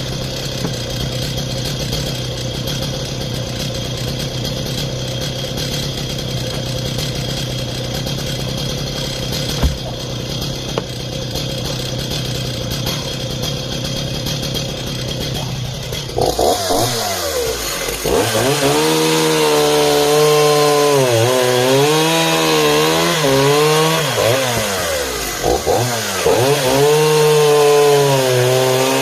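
Homelite 340 chainsaw engine running steadily at first, then, a little over halfway through, revved into a cut in seasoned hardwood, its pitch rising and sagging again and again as the chain bites and clears.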